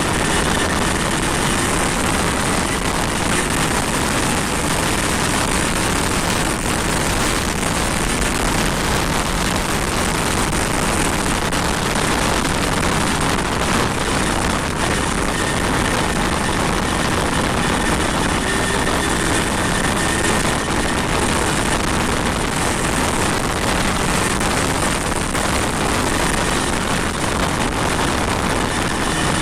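Steady heavy rain: a dense, even hiss that does not let up.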